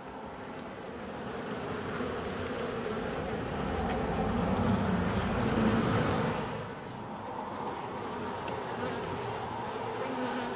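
Mass of honey bees buzzing loudly from a colony disturbed as its comb is cut out of a house wall; the buzzing swells about midway, then drops back.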